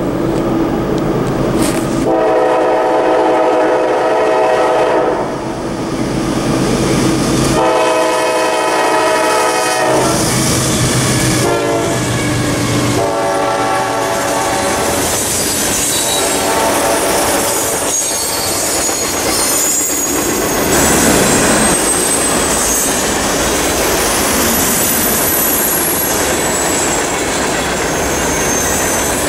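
Diesel freight locomotive's air horn sounding several blasts, the first two long, then freight cars rolling past with wheel clatter and a thin, high-pitched squeal from the wheels in the second half.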